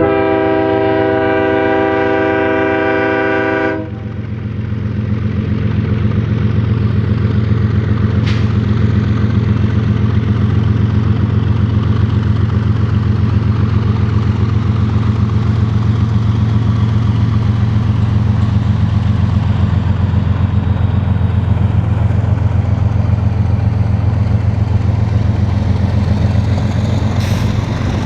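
BNSF freight locomotive's air horn sounding a loud multi-note chord that cuts off about four seconds in. Under it and after it comes the steady low rumble of the diesel locomotives and the train rolling past.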